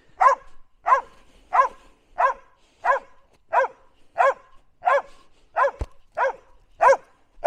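A dog barking over and over at an even pace, about three barks every two seconds, while waiting for the ball to be thrown in a game of football. One short thump sounds about six seconds in.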